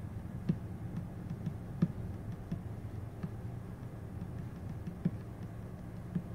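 Steady low hum of an idling truck engine, with faint, irregular clicks scattered through it.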